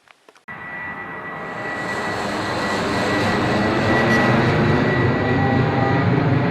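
Four-stroke gasoline engine (Saito FG-14) of a radio-controlled model airplane running in flight. It comes in suddenly about half a second in and grows louder over the next few seconds, then holds steady.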